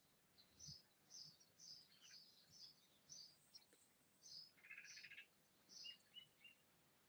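Faint small-bird chirps repeating about twice a second, with a brief rapid trill about five seconds in.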